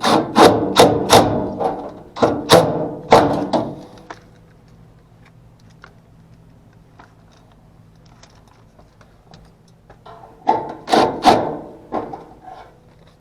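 Knocks, clunks and rubbing of tools and parts being handled, a quick run of them and then another burst near the end, with a low steady hum underneath.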